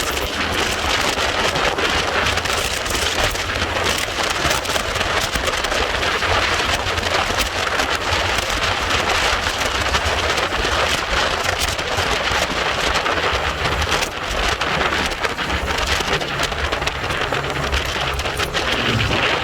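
Steady wind rushing over the microphone of a moving motorcycle, a loud even hiss with a low rumble beneath it.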